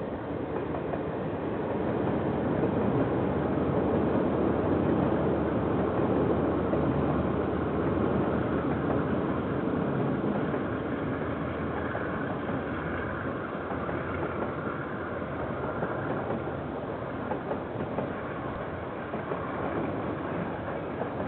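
KiwiRail freight train passing, a steady noise of wheels on rail that swells over the first few seconds, is loudest for several seconds, then eases slightly with a few uneven wheel clacks as the wagons roll by. Heard through a security camera's microphone, which cuts off the high end.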